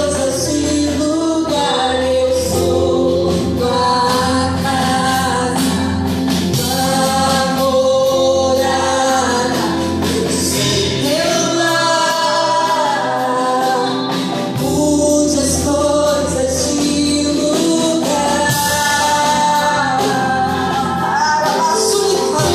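Live gospel worship music: voices singing a hymn over a band with bass, the bass dropping out briefly about halfway through.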